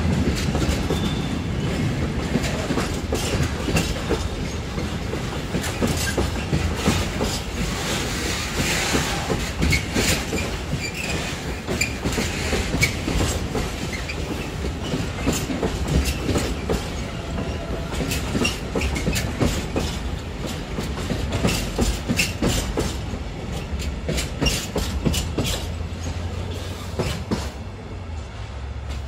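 Railway tank wagons of a freight train rolling past, their wheels clacking steadily over the track with a low rumble. The clacking thins out near the end.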